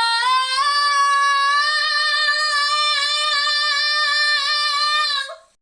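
A voice holding one long, high sung note, sliding up into it at the start and then held steady with a slight waver for about five seconds before fading out near the end.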